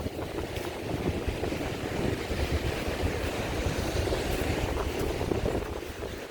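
Wind buffeting the microphone in uneven gusts, with a steady rushing hiss of wind behind it.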